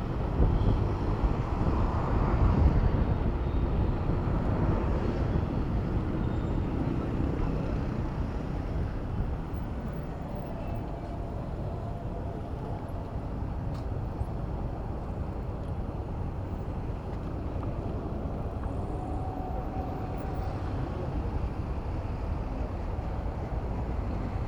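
Steady rumble of road traffic and wind heard from a bicycle riding through city streets, loudest in the first few seconds.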